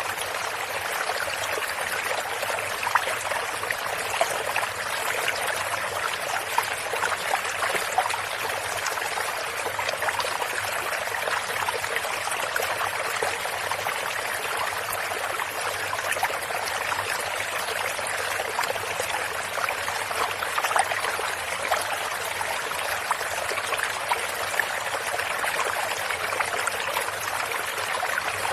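A small stream running steadily, the water trickling and splashing over stones in a continuous rush with many small splashes.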